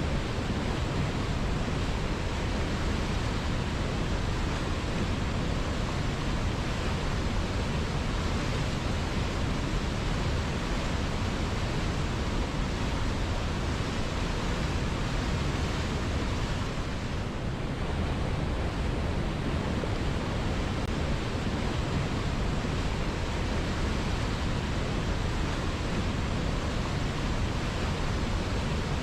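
River water flowing, a steady continuous rush with no breaks.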